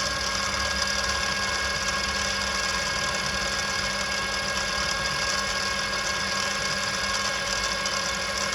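Small milling machine's spindle motor running steadily with a steady hum and whine, its 5 mm cutter just scratching the surface of a brass part.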